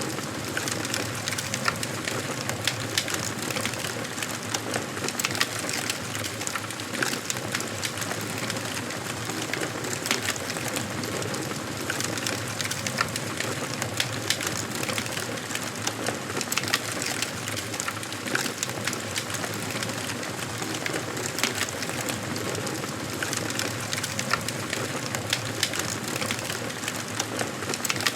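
Wood fire crackling in a fireplace: a steady hiss of burning logs with frequent sharp pops and snaps at irregular moments.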